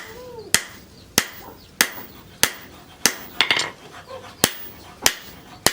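Hand hammer striking steel on an anvil in a steady forging rhythm, a little under two sharp blows a second, with a short pause a little past the middle: steel from an old sprocket being hammered into a machete blade.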